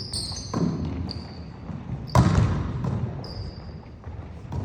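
A basketball bouncing on a gym floor, a few thuds with a reverberant tail, the loudest about two seconds in. Sneakers give short high squeaks on the court in between.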